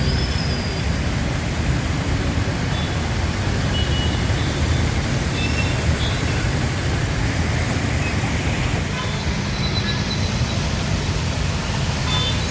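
Steady road traffic noise from vehicles driving along a flooded street, with a constant low rumble.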